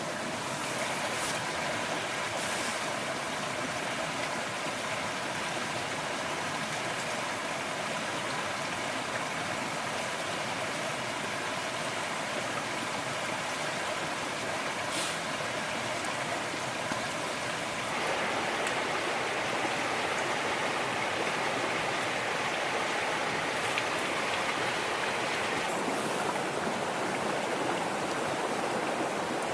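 Steady rushing noise like running water, which gets slightly louder and brighter about two-thirds of the way through.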